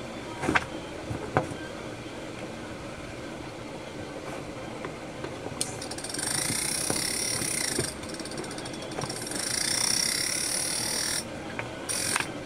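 A couple of light clicks, then two whirring bursts of about two seconds each from a small motor.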